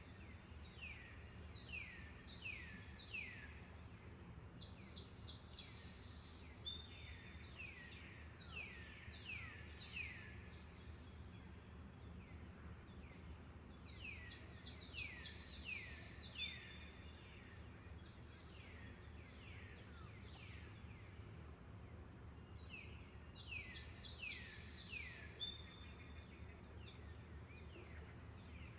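Forest ambience: a songbird sings phrases of several quick falling whistles, a new phrase every several seconds, over a steady high-pitched insect drone and the low rush of a river.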